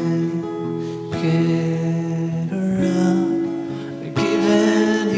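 Acoustic-electric guitar strummed in sustained chords, with two hard strums about one second and four seconds in, playing the accompaniment of a slow pop ballad.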